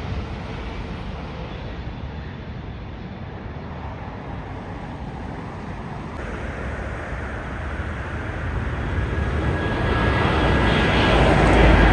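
Jet airliner engine noise, a steady rush that eases slightly a few seconds in and then grows steadily louder toward the end as an aircraft draws near.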